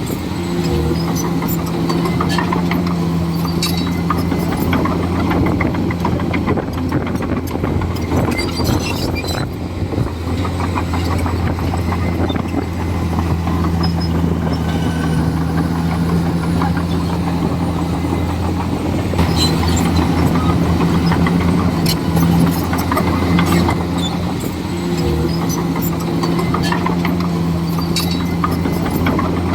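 Komatsu D41E bulldozer's diesel engine running under load, steady, with scattered clanks and knocks. The engine note dips briefly about a second in and again near the end.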